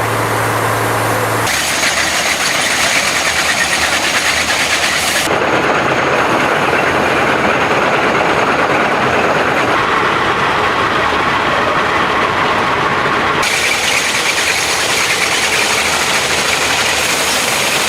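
Railway ballast cleaning machine at work: loud, dense engine and machinery noise that changes character abruptly four times.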